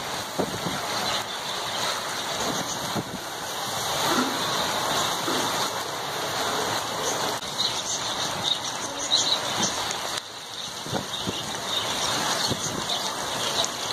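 Heavy rain pouring onto a concrete floor: a steady hiss of rainfall with scattered sharper splashes of individual drops.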